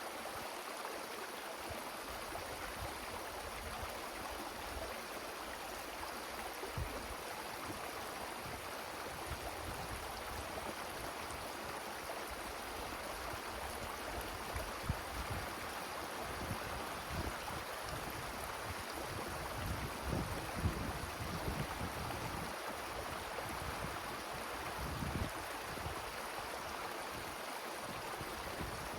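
Wind rushing steadily through forest trees, with irregular low gusts buffeting the microphone in the middle and later part.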